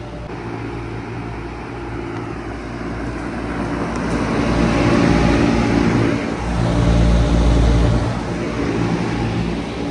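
2001 Bard 5-ton wall-hung heat pump running in cool mode: a steady low hum with the rushing air noise of its fan, growing louder toward the middle and easing off a little near the end.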